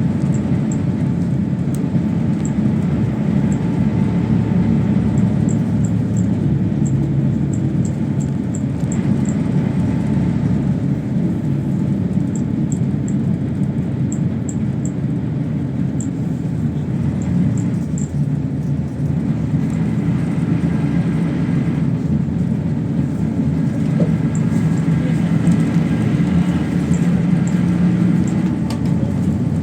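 PAZ-32054 bus engine running under way, heard from inside the cabin over a steady road rumble, its note rising and falling with speed.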